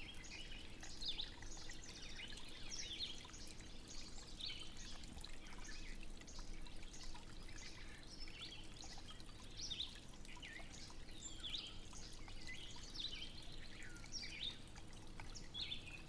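Small birds chirping and singing, many short high calls one after another and overlapping, over a faint steady low hum.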